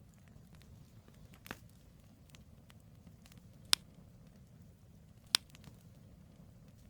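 Campfire of burning firewood crackling, with a low steady rumble of flame and scattered small pops. Two loud, sharp snaps come from the wood, one a little past the middle and one about a second and a half later.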